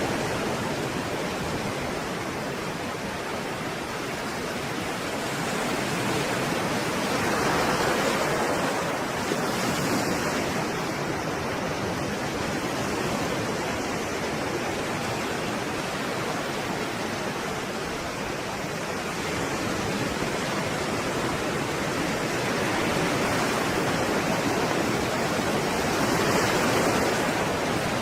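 Stormy sea surf: a continuous rush of breaking waves, swelling about eight seconds in and again near the end.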